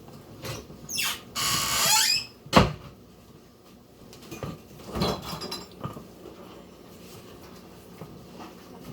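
A spatula scraping the sides of a mixing bowl full of cream cheese and peanut butter filling, in a few short strokes. There is a sharp knock against the bowl a couple of seconds in, and another scrape about halfway through.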